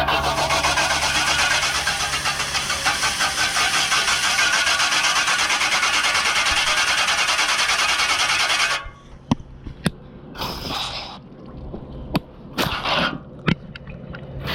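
Garden-hose jet spraying water hard into a Bryant air-conditioner condenser unit: a steady rushing hiss with a fast flutter as the jet drives the fan blades round. It cuts off about nine seconds in, leaving short spurts and clicks.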